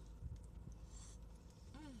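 Faint eating and handling sounds: a utensil scraping and clicking in a takeout container, over a low rumble. A short rising-then-falling tone near the end.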